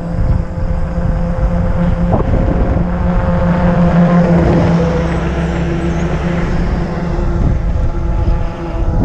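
Road traffic heard from a moving bicycle: a motor vehicle's engine hum swells about four seconds in and then eases off, over a steady low wind rumble on the microphone.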